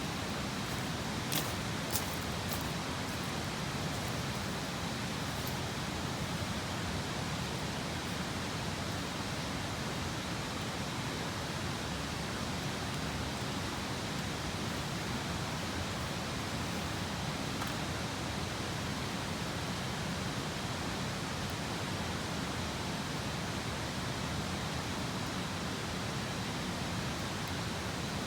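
Steady rushing of river water, with a few sharp pops from a wood campfire about one and two seconds in.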